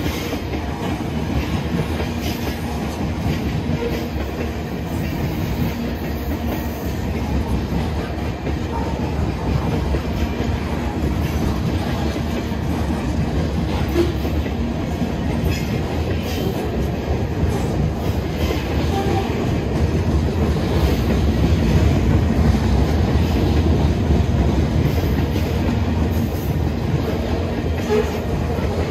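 Canadian Pacific manifest freight train's cars rolling past on the rails: a steady rumble with the clickety-clack of wheels over rail joints.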